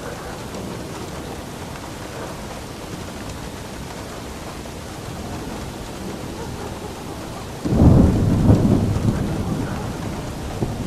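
Steady rain, with a sudden loud clap of thunder about three-quarters of the way in that rumbles on and slowly fades.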